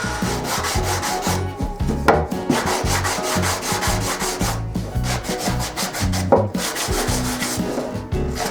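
Wood being sanded or rubbed by hand in repeated strokes while a wooden bird feeder is made, with two sharper knocks about two seconds in and about six seconds in.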